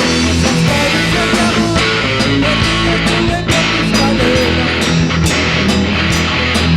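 Rock band playing an instrumental passage: guitar over a steady bass line and drums, with no singing.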